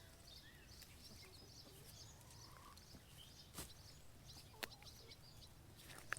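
Near silence: faint scattered bird chirps, with two short soft knocks about a second apart near the middle.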